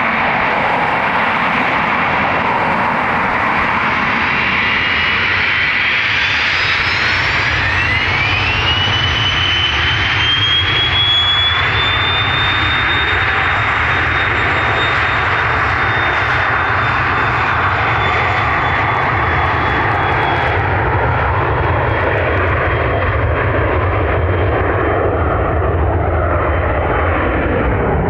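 Cessna Citation 560XL's twin turbofan engines spooling up for takeoff: a whine rises in pitch about seven seconds in, then holds as a steady high whine over the loud jet rush.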